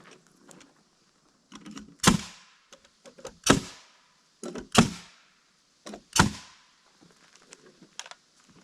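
Four heavy hammer blows on a wooden deck frame, about a second and a half apart, each with a short ringing tail, knocking the frame over to bring it into square. Light knocks and clicks of handling between the blows.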